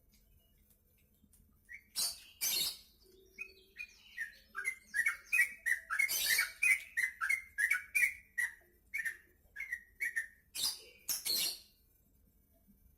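Yellow-vented bulbul (trucukan) singing: a long run of quick, bubbly chirps, opened and closed by pairs of harsh, rasping calls.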